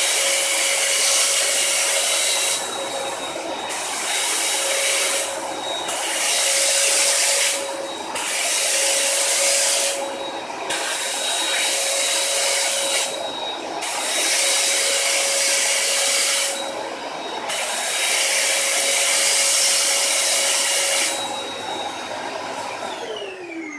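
Zelmer 919.5 washing vacuum cleaner running with a steady motor whine, its suction hiss swelling and easing every second or two. Near the end the motor is switched off and its whine falls away.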